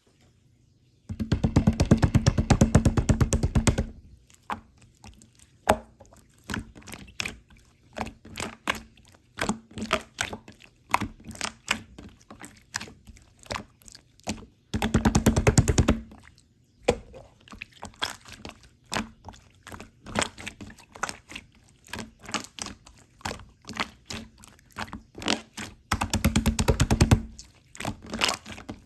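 Slime being squished and poked by hand, making many small sticky clicks and pops. Three times it breaks into a fast run of dense clicking lasting one to three seconds, with scattered single pops in between.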